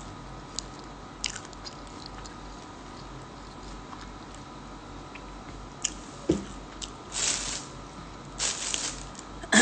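A person chewing food close to the microphone, with small mouth clicks and lip smacks. Near the end come two short rustling bursts, like a paper napkin being rubbed.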